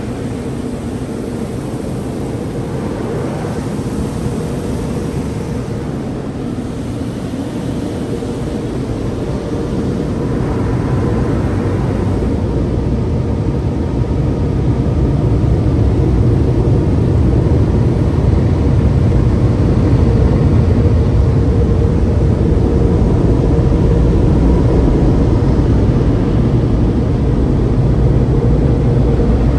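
Car wash tunnel dryer blowers running: a steady roar of air over a low hum, growing louder about ten to fifteen seconds in and then holding.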